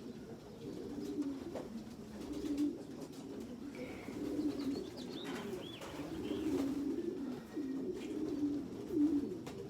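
Racing pigeons cooing continuously, overlapping low warbling coos repeating throughout.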